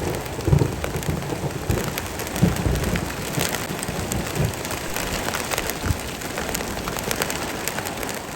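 Heavy rain falling steadily, with many single drops striking hard close by. A low roll of thunder is dying away at the start.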